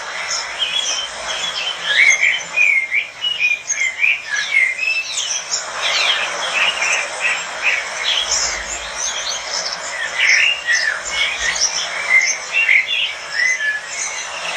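A flock of small parrots, lovebirds, chattering together: many short, high chirps and squeaks overlapping throughout.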